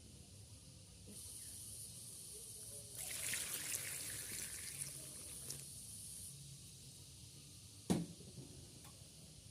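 Water running and splashing for a few seconds, loudest in the middle, then a single knock near the end.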